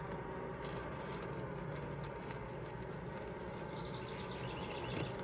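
Honeybee colony humming steadily around an opened hive, the bees disturbed by the inspection.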